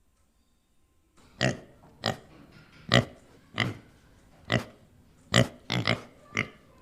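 Pig grunting: a run of about nine short grunts, starting about a second in.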